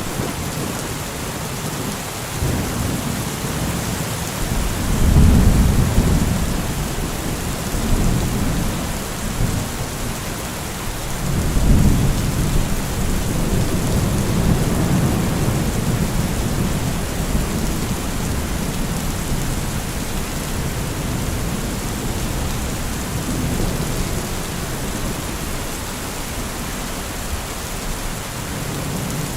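Steady rain falling, with thunder rolling underneath. The rumble swells about five seconds in and again at about twelve seconds, then rolls on more quietly.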